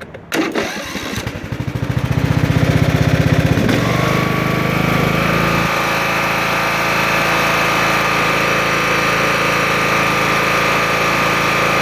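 Sears Craftsman LT1000 lawn tractor's engine being started: the electric starter cranks it with an even pulsing for about three seconds, then the engine catches and settles into a steady run.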